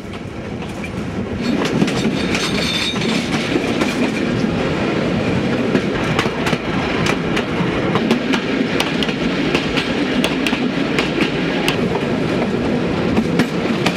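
Metre-gauge La Mure railway carriage running along the track, its wheels clattering and clicking over the rail joints in a steady rattle with many sharp irregular clicks. It gets louder over the first couple of seconds, heard close to the wheels from an open carriage doorway.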